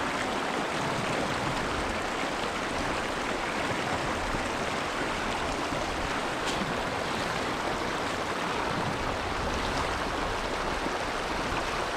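Mountain stream water flowing, a steady rushing noise.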